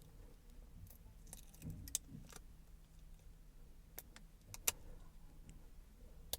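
Faint handling of small plastic gouache paint cups: a few scattered sharp clicks and light rattles, the loudest a little under five seconds in, over a low steady hum.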